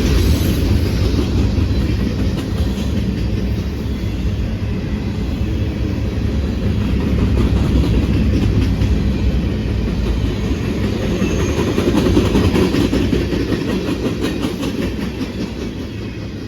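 A train rolling past, a steady rumble with its wheels clicking over rail joints, fading away over the last few seconds.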